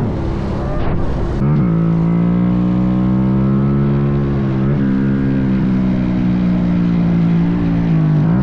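Minibike engine running at a steady speed, with brief wavers in pitch about a second and a half in, midway, and near the end as the throttle shifts.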